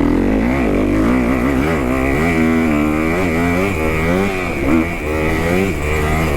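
2018 Kawasaki KX250F's single-cylinder four-stroke engine being ridden hard around a motocross track, its revs climbing and dropping repeatedly as the throttle is worked.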